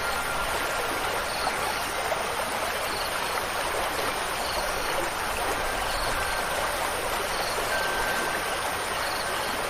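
Steady rushing of flowing water, like a stream. Faint short high chirps repeat about once a second.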